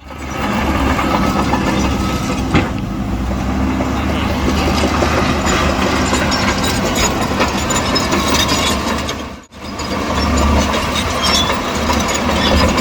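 Heavy diesel engines of a Shantui bulldozer and a dump truck running steadily, with a sharp knock about two and a half seconds in. The sound cuts out briefly about nine and a half seconds in, then picks up again.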